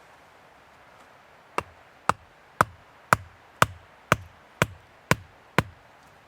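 Nine sharp, evenly spaced blows of a hand tool striking, about two a second, each with a short thud.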